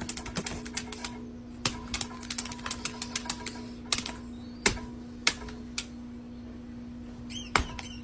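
Irregular sharp clicks and taps, some in quick runs, over a steady hum.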